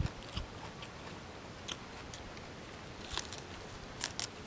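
Crisp crunches of a person biting and chewing a raw green vegetable: a few sharp crunches spread out, with two close together near the end.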